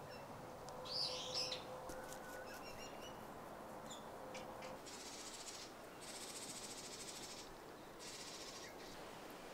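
Faint outdoor quiet with a bird calling about a second in, two short high notes close together, and a few faint chirps shortly after; soft patches of hiss come and go later.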